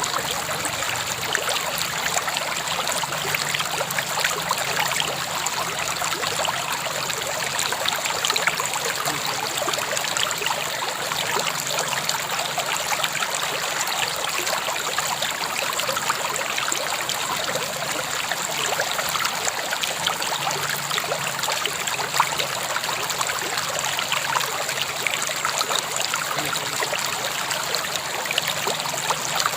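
River water flowing, a steady, even rush and trickle with no change in strength.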